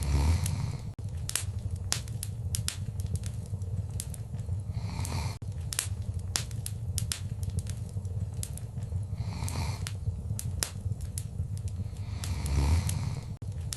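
Wood fire crackling in a fireplace, with frequent sharp irregular pops over a low steady rumble of the flames. About four times there is a brief louder rush.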